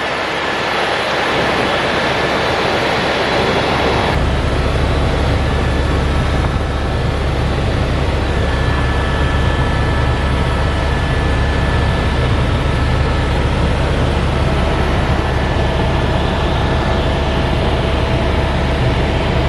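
Helicopter running, its engine and rotor noise a loud, steady drone with a strong low hum throughout; the sound shifts slightly about four seconds in.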